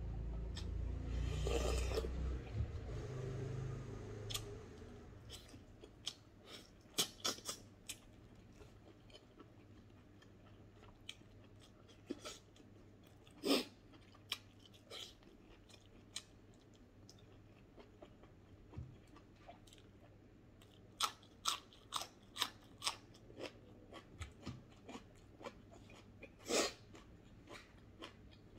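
A man slurping broth from a bowl for the first few seconds, then chewing and crunching food with wet mouth clicks and smacks, coming in irregular clusters.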